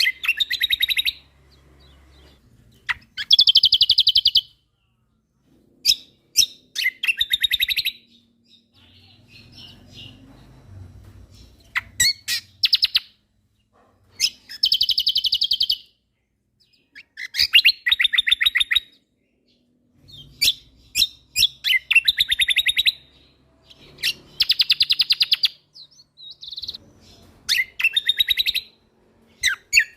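Kecial kombok (cucak kombo) singing: a series of rapid rattling trills, each about a second long, repeated about ten times with short pauses between them.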